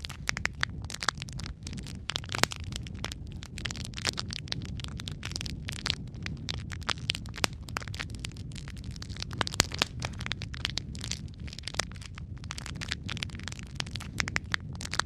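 Logs burning in a fireplace, crackling with dense, irregular pops and snaps over a steady low rumble of flame. A few louder snaps stand out, about two and a half seconds in and again near the middle.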